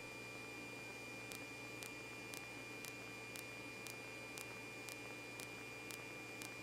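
Faint electronic hiss and hum with a thin steady high tone and faint ticks about twice a second: the quiet between police radio transmissions.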